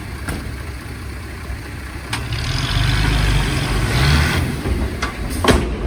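Heavy diesel earthmoving machinery running with a low rumble. It works harder from about two seconds in, then eases, with a few sharp knocks.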